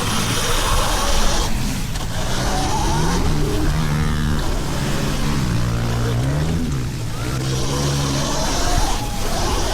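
Pit bike engines on the track, their pitch repeatedly rising and falling as the riders rev out and back off through the laps.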